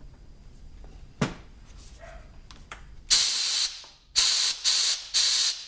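Compressed-air blow gun fired in four short bursts of hiss into a brake caliper to work its pistons in their new seals, the first burst the longest. A single knock comes about a second in.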